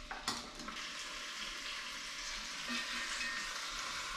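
Chicken thighs sizzling in hot olive oil in a deep cast iron pot, a steady frying hiss, with one brief knock about a quarter second in.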